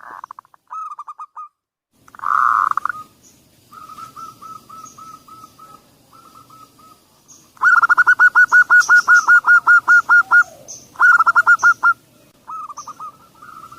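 Zebra dove (perkutut) song: bursts of rapid, evenly spaced cooing notes, about six a second. The longest and loudest run starts a little past halfway and lasts nearly three seconds. Faint high chirps of other small birds sound behind it. It is a lure call meant to get other perkutut to sing.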